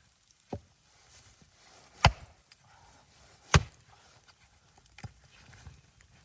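Four sharp chopping strikes about a second and a half apart, the middle two much louder than the first and last.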